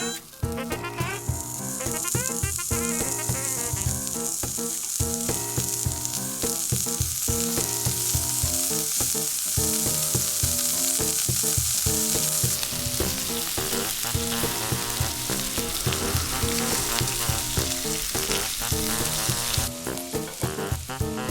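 Bacon sizzling as it fries, a dense steady hiss that starts about a second in and stops shortly before the end, with background music underneath.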